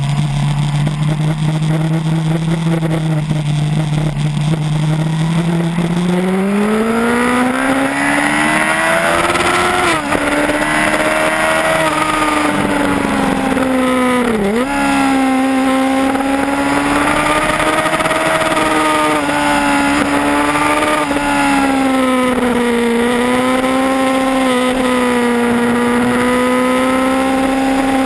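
Yamaha R1's inline-four engine pulling hard, heard from on the bike over wind rush: its note holds steady at first, climbs in pitch about six seconds in under acceleration, dips briefly twice at gear changes or throttle lifts near ten and fourteen seconds, then rises and falls with the throttle.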